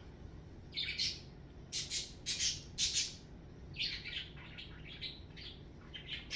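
Pet bird calling: about a dozen short, scratchy chirps and squawks in quick clusters.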